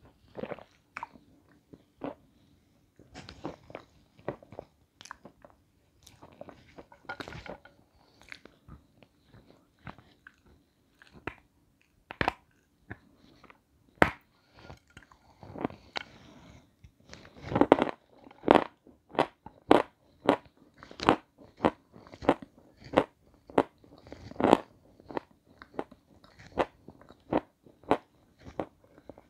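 Close-miked biting and chewing of hard, crunchy white chunks. Scattered crunches at first, then from about halfway a steady run of sharp, loud crunches, one or two a second.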